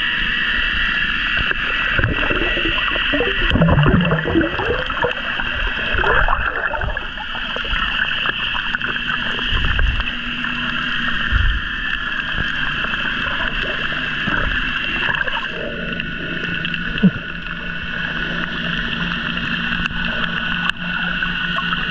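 Boat engine running steadily with water rushing and splashing alongside.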